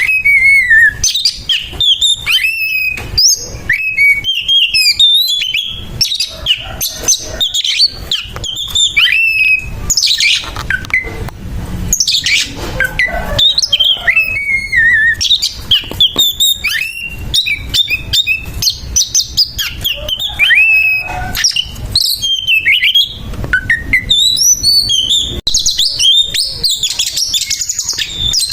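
Oriental magpie-robin (kacer) singing its fast, harsh fighting song: rapid whistled notes and glides broken up by rough, grating calls with no pause, the aggressive challenge a male gives a rival.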